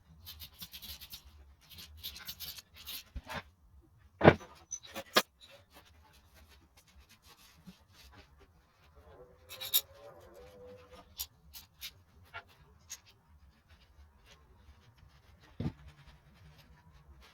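Scattered sharp clicks and knocks with soft rubbing between them, as of tools and small engine parts being handled on a bench. The loudest knocks come about four and five seconds in.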